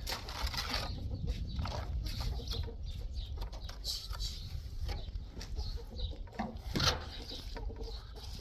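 Chickens clucking, with scattered short calls and clicks over a low rumble, and a sharper, louder noise about seven seconds in.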